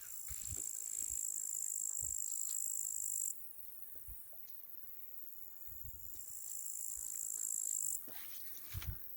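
Crickets trilling in a steady high-pitched chirr that cuts off about three seconds in, returns around six seconds and stops again about a second before the end. A few soft low thumps sound underneath.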